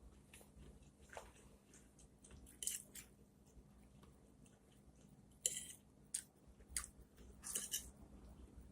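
A person chewing food close to the microphone, with a handful of short wet mouth smacks and clicks, the loudest about halfway through.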